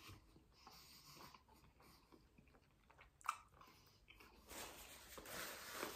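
Faint mouth sounds of a man biting and chewing a thick pickle slice, with one short crunch about three seconds in and soft chewing from about halfway; otherwise near silence.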